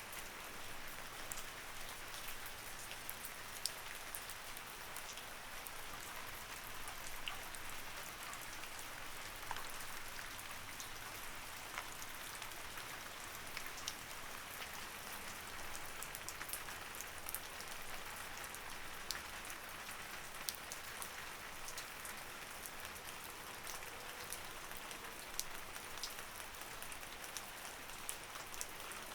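Light rain falling steadily, an even hiss with scattered individual drops ticking sharply on a surface.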